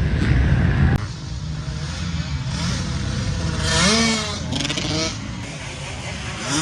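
Motocross dirt bike engines running and revving. The sound changes abruptly about a second in, and near the middle one engine's pitch rises and then falls.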